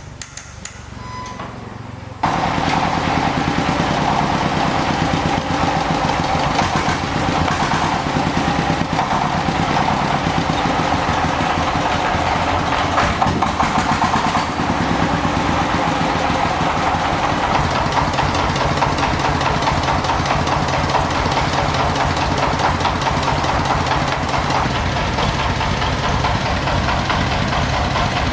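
Restored old tractor engine starting about two seconds in, then running steadily at idle with a fast, even firing beat.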